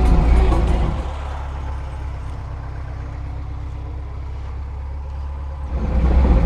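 Lada Niva 4x4 engine and drivetrain noise. It is loud for the first second, falls to a quieter steady low rumble for nearly five seconds, then rises again near the end.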